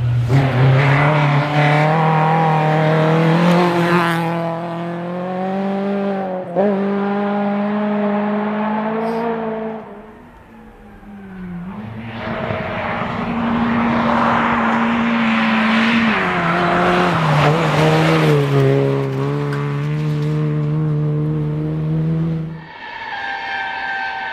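Rally cars racing through a stage at high revs, the engine note climbing and dropping sharply with each gear change. One car passes, the sound fades for a moment about ten seconds in, then a second run comes through. Near the end a steady horn-like tone takes over.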